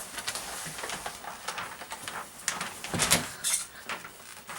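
Gift wrapping paper rustling and crinkling as it is folded and handled around a present, with scattered sharp taps and a louder crackle about three seconds in.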